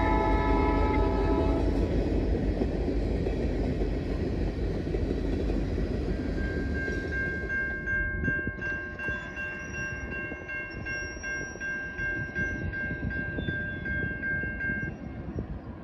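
A freight locomotive's multi-chime air horn ends about two seconds in. The rumble of the passing empty coal train then slowly fades. From about six seconds in, a high, evenly repeating ringing carries on until near the end.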